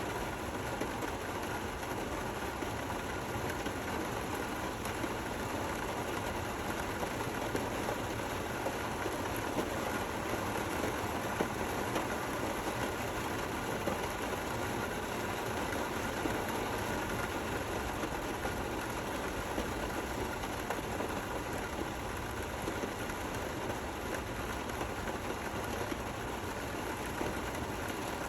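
Steady rain falling, an even continuous hiss with fine patter and no thunder.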